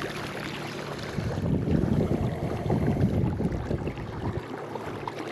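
Wind buffeting the microphone: an uneven, gusting rumble with rustling on top, strongest in the middle.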